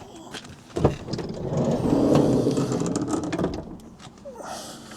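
A van's sliding side door: a knock about a second in, then a couple of seconds of rolling rumble as the door runs along its track.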